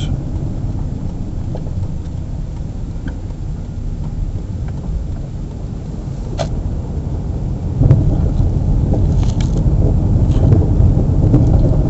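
Car driving, heard from inside the cabin: a steady low rumble of engine and road noise that gets louder about eight seconds in.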